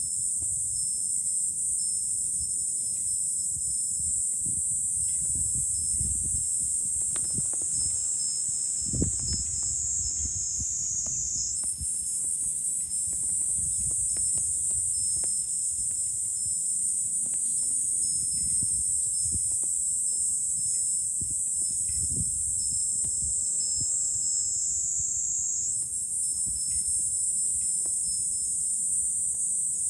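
Cicadas droning in a loud, steady, high-pitched chorus that jumps up in pitch twice, about twelve and twenty-six seconds in. Wind gusts rumble on the microphone underneath.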